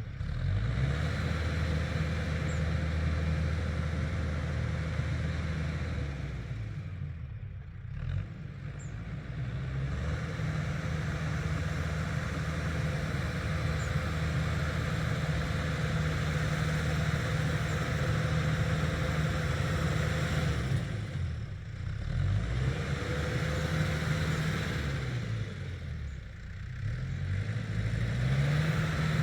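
Tractor engine running steadily, its revs dropping and picking back up three times: about a quarter of the way in, again about three quarters in, and once more shortly after.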